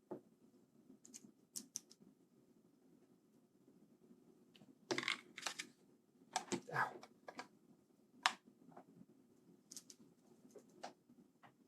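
Faint, scattered clicks and taps of a screwdriver and small screws on a mechanical keyboard's PCB and frame as it is screwed back together, with a cluster of clicks about five to seven seconds in.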